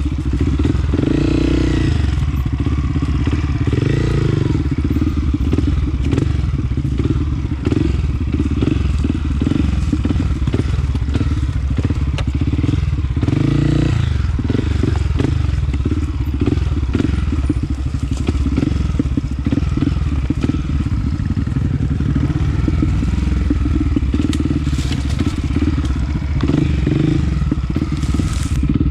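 Honda CRF250F's single-cylinder four-stroke engine running under way on a dirt trail, its revs rising and falling with the throttle several times. Short clattering knocks from the bike over rough ground run through it.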